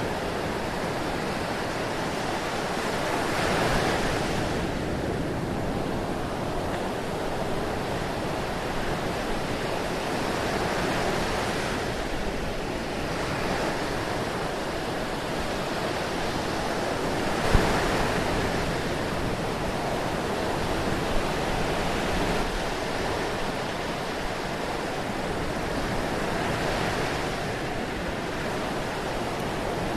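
Ocean surf: a continuous wash of breaking waves that swells and recedes every few seconds, with one brief sharp click a little past the middle.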